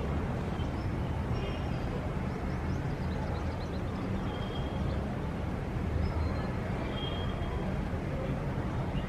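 Steady low rumble of distant city traffic, with birds chirping in short high calls every second or two.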